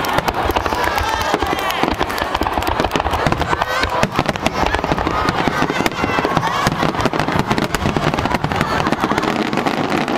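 Dense, continuous barrage of fireworks shells bursting and crackling in rapid succession, a grand-finale volley.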